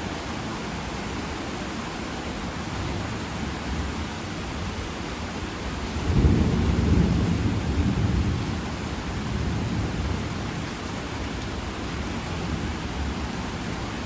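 Steady heavy rain with a roll of thunder about six seconds in: a sudden deep rumble that peaks for a couple of seconds and fades away over several more.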